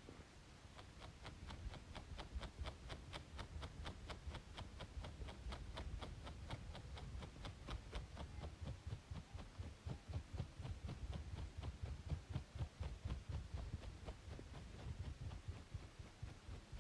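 Rapid, even scratching strokes on a braided scalp, about five a second, each with a soft low thud, over a steady faint background hiss of white noise.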